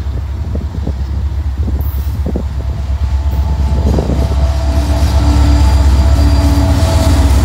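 CN freight train's diesel locomotive approaching and passing close by: a deep engine rumble that grows steadily louder as it draws level. A steady whine joins about five seconds in.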